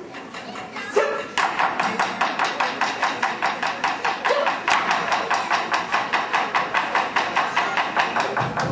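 Taiko drummers playing a fast, even run of sharp wooden clicks, about seven a second, beginning about a second in, with no deep drum tone under them; two short calls cut in, and low drums join right at the end.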